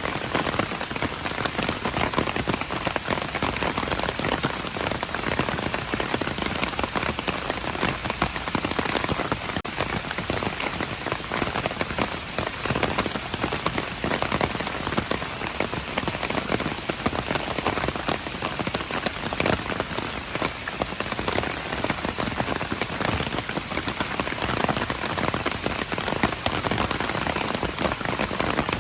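Steady rain falling on hard surfaces, a dense even patter of drops with no break.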